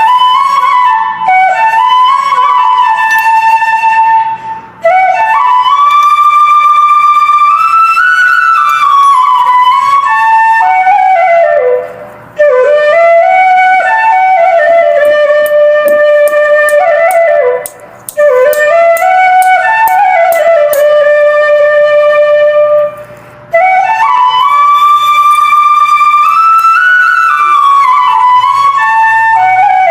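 Background music: a flute playing a slow, gliding melody in long phrases, with short breaks between phrases over a faint low drone.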